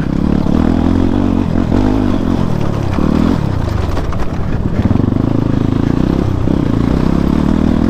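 Motorcycle engine running steadily as it is ridden along a rough dirt trail, with some rattle from the bike.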